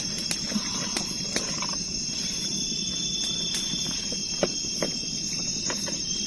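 Night insects in the forest, crickets or cicadas, trilling steadily in a high-pitched chorus, with scattered sharp clicks and pops over a low rumbling background.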